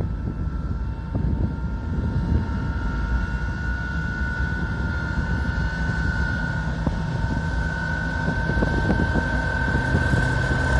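2TE116 twin-section diesel locomotive's engines running under load as it pulls a freight train away: a heavy low rumble with a high whine that slowly rises in pitch, growing louder toward the end.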